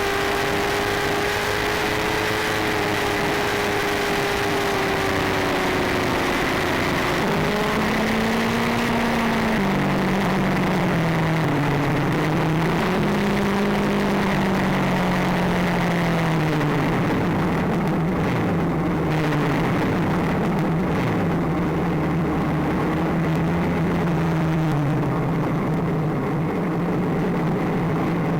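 Motorcycle engine running on the move, its pitch falling and rising several times with throttle and gear changes, then holding fairly steady for the second half. It sits under a constant rush of wind and road noise.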